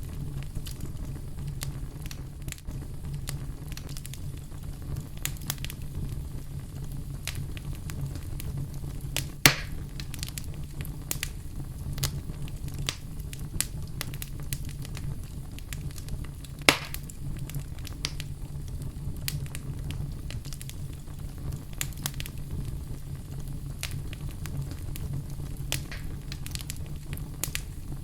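Wood fire burning in a fireplace: a steady low rumble of flames with frequent small crackles and two louder sharp pops, about a third of the way in and past halfway.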